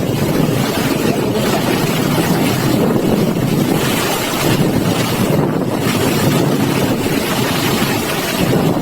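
Floodwater rushing in a torrent, a loud steady rush with no let-up.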